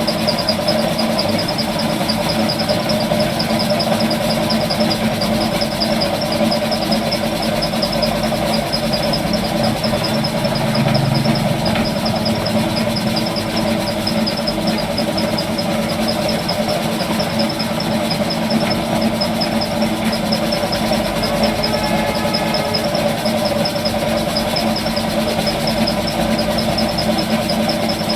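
A machine running steadily: a constant mechanical hum with a fast, even high-pitched pulsing over it.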